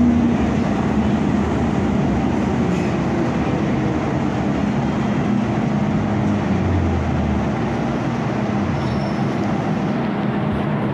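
MTR Kwun Tong line M-Train heard from on board while running: a steady rail rumble with a low hum, easing slightly in loudness toward the end.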